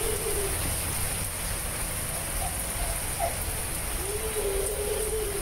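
Steady rain falling with gusty wind rumbling on the microphone. A faint drawn-out tone comes through about four seconds in.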